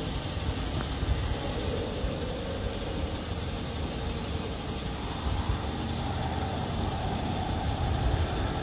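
Steady low rumble of a car heard from inside the cabin, engine and road noise with no distinct events.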